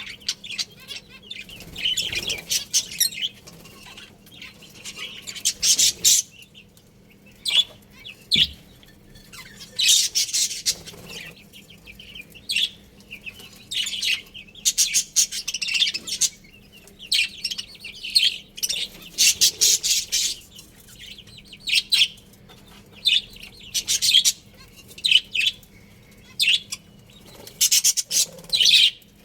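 Pet budgies chirping and chattering in short, irregular bursts, with a faint steady hum underneath.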